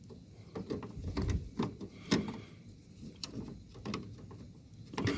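Irregular clicks, knocks and rattles of a part being pushed and fiddled with against a window air conditioner's casing as it is being fitted on.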